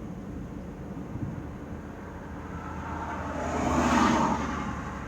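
Steady low hum of a vehicle, with a rushing swell that builds, peaks about four seconds in and fades, like another vehicle going past.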